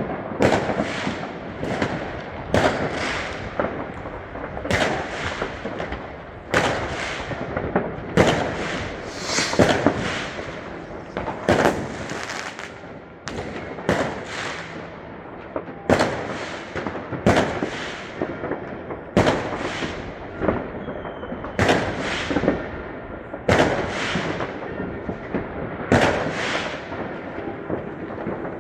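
New Year's Eve fireworks going off: sharp bangs about once a second, each trailing off in an echo, over a steady background of further bangs.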